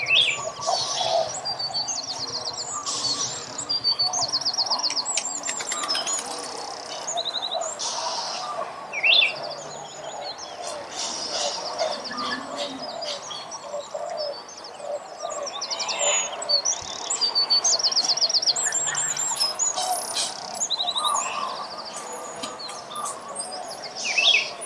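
A chorus of small songbirds chirping and singing over one another, with rapid high trills and a steady layer of lower chattering calls.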